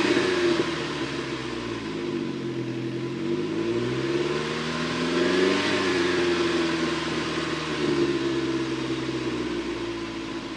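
Saab 9-3 Viggen's turbocharged 2.3-litre four-cylinder engine and exhaust being revved while parked. The revs fall away from a rev at the start, climb to a peak about halfway through, drop, rise briefly again a couple of seconds later and settle back down.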